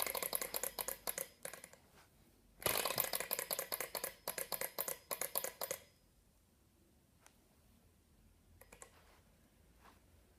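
Model Stirling engine's small moving parts clicking rapidly in two bursts, about a second and a half and then about three seconds long, each stopping short, with a few faint clicks later on: the engine turning over briefly during startup without keeping running.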